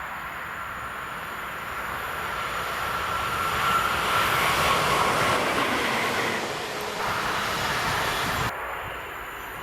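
A Newag Gama locomotive running light without wagons passes on the rails. The sound builds to its loudest about four to five seconds in, then eases off and cuts off suddenly near the end.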